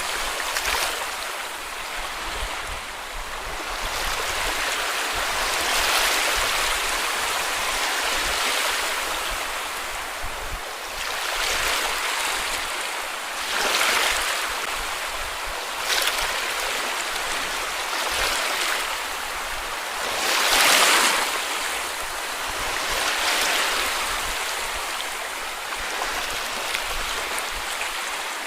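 Small sea waves washing onto a beach: a steady hiss of surf, with a louder wash every few seconds as each wave breaks.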